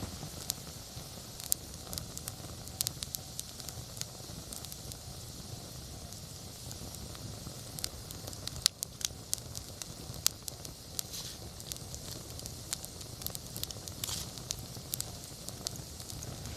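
Wood campfire burning, with a steady low rush of flames and sharp irregular crackles and pops from the burning wood.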